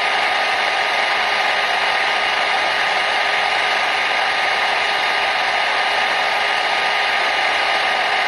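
Hair dryer running steadily: an even blowing rush with a faint, constant whine in it.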